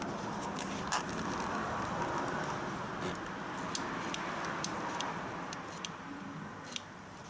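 Yamaha Majesty C scooter engine running steadily, with scattered light clicks over it.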